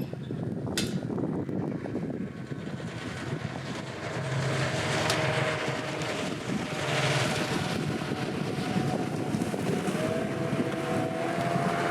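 A boat's engine running with a steady hum, its pitch rising slightly about ten seconds in, under wind noise on the microphone.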